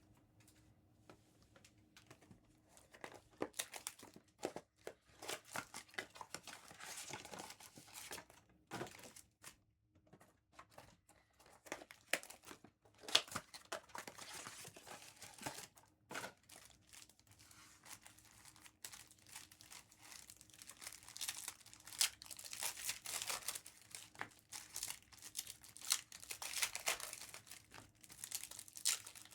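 Trading-card packs and blaster-box wrapping being torn open and crinkled by hand, in irregular bursts of crackling and rustling.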